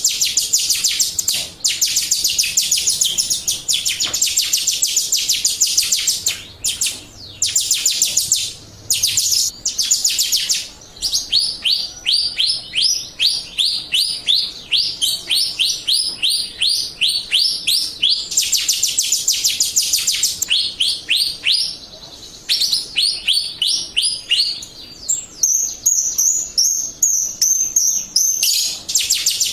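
Jalak Rio starling singing vigorously in rapid runs of high chirps, with a few short breaks. After about eleven seconds the song turns into a steady string of separate sharp notes at about four a second.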